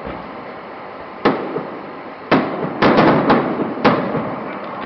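Aerial firework shells bursting overhead: about six sharp bangs, one about a second in, another near two seconds, then a quick run of four, each trailing off.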